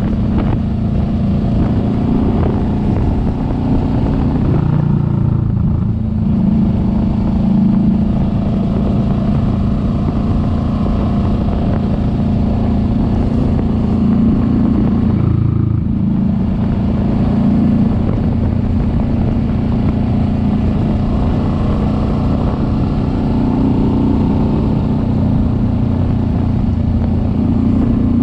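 Kawasaki Vulcan S 650's parallel-twin engine running steadily under way. The engine note drops briefly twice, about five and fifteen seconds in, then picks up again.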